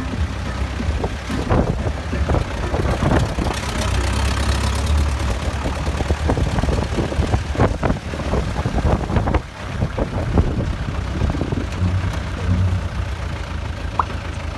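Motor vehicle engine running steadily, with many short knocks and rattles over it.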